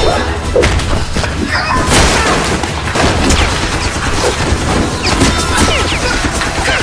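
Loud, rapid volleys of gunfire and booms, dense and continuous, in the style of action-film gun sound effects.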